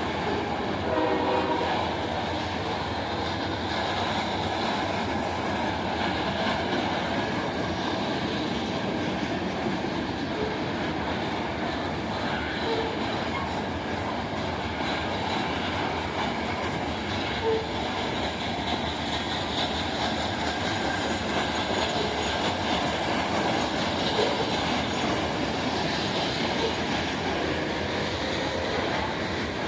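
A train rolling steadily past on the rails, a continuous noise that doesn't let up, with a few short squeaks scattered through it.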